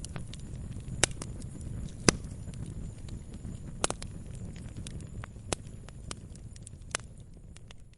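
Wood fire crackling in a fireplace: a steady low rumble of burning with sharp pops every second or so, the loudest about two seconds in. The sound fades down near the end.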